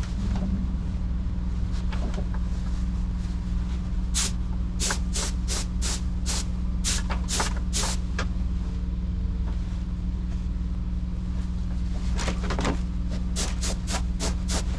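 Paint spray gun being triggered in short hissing bursts, a run of about eight passes some four seconds in and another run near the end, over a steady low machine hum.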